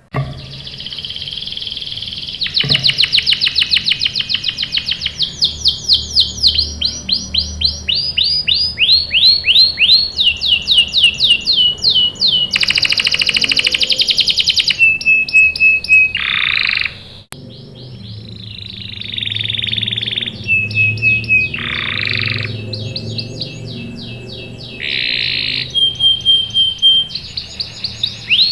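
Canary singing a long song of trills: each trill is a fast run of the same sweeping note repeated many times a second, and the bird switches to a new trill every second or two. A short break comes about two-thirds of the way through.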